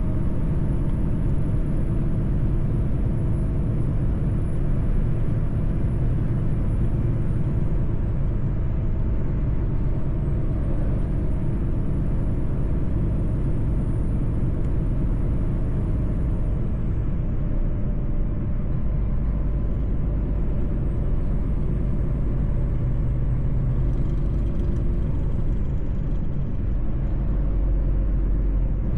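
Mercedes-Benz truck driving at a steady pace: continuous engine drone and road rumble, with a faint high whine that slowly rises and falls.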